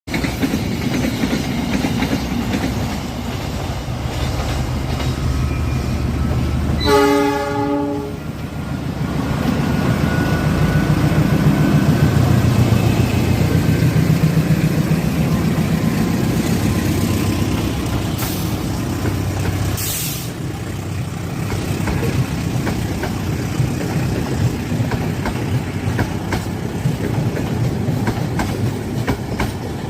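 A passenger train hauled by two diesel locomotives passing, engines running, with one horn blast of about a second roughly seven seconds in. After the horn the sound swells as the locomotives go by, then the carriages' wheels clack rhythmically over the rail joints.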